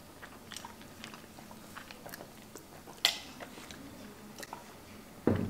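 A person chewing seafood close to the microphone: soft, wet mouth clicks and smacks, with one sharper click about three seconds in and a short louder thump near the end.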